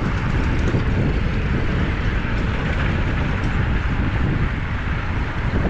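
Wind buffeting the microphone: a loud, steady rush of noise, heaviest and most unsteady in the low end.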